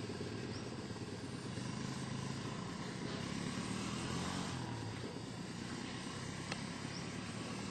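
An engine running steadily with a low hum, easing slightly about five seconds in.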